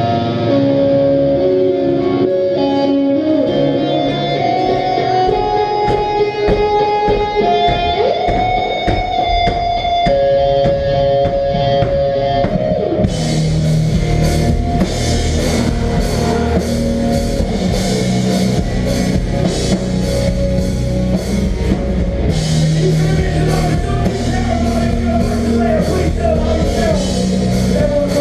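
Live rock band playing without vocals: melodic electric guitar lines alone at first, then drums with crashing cymbals come in about halfway through and the full band plays on heavily, with a brief drop in the cymbals near the end.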